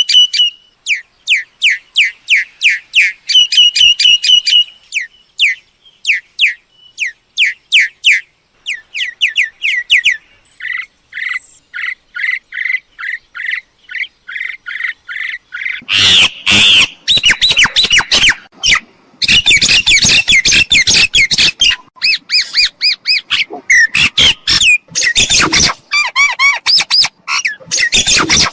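Myna calls: a fast series of short repeated whistled notes, then, from about halfway through, loud harsh squawking chatter.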